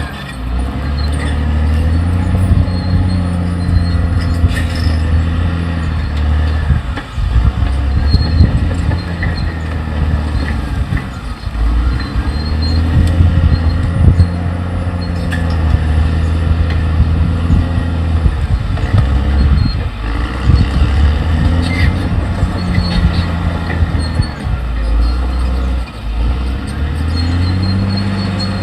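Caterpillar D6R XL bulldozer's diesel engine working hard, its pitch dipping and rising again every few seconds as the load comes on and off. A few sharp metallic clanks and faint squeals sound from the machine.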